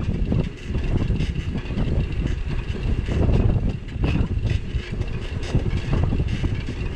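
Wind buffeting a bike-mounted action camera's microphone over the rumble of a bicycle riding on city streets, with scattered rattles and clicks.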